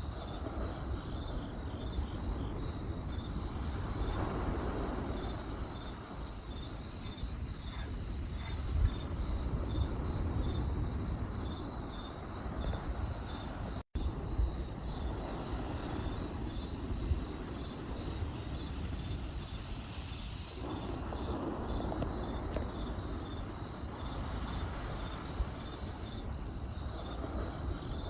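Crickets chirping in a steady, rapidly pulsed high trill over a campfire: a low, uneven rumble from the fire with scattered sharp crackles and pops. The sound cuts out for an instant about halfway through.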